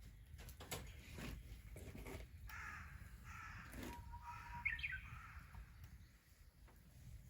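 A crow cawing several times, faint and harsh, after a few short clicks or cracks.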